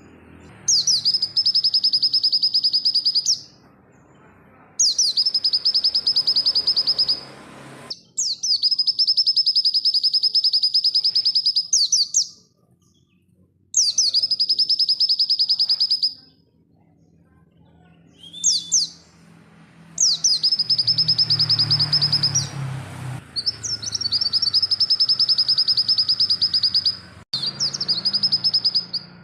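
Yellow-breasted white-eye (pleci dakun) singing: fast, high trilled phrases of a few seconds each, repeated again and again with short pauses between them.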